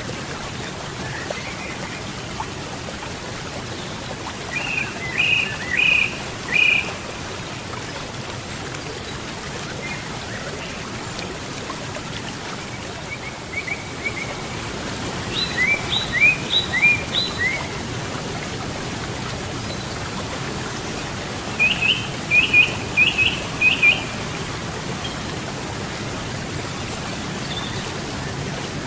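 Steady rush of flowing river water, with a bird singing three short phrases of quick repeated chirps: about five seconds in, about fifteen seconds in, and about twenty-two seconds in.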